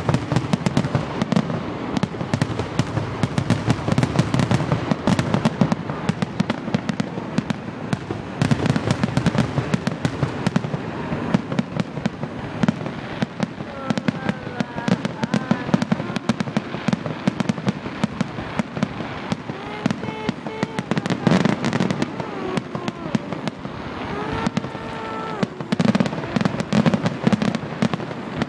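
Fireworks display: a dense, continuous barrage of overlapping bangs, pops and crackles.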